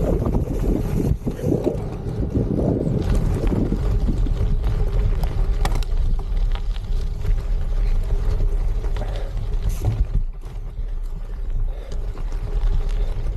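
Tyres of a Trek Checkpoint gravel bike rolling over gravel with wind buffeting the microphone: a steady low rumble with scattered small ticks. It eases for a couple of seconds about ten seconds in.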